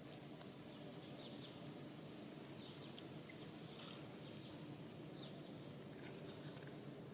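Faint outdoor ambience: a steady low background noise with short, faint high chirps of small animals scattered through it.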